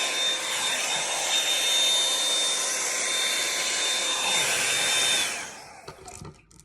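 Revlon One-Step hot-air brush hair dryer running with a steady rush of air and a thin high whine, cutting off about five seconds in, followed by light handling noises.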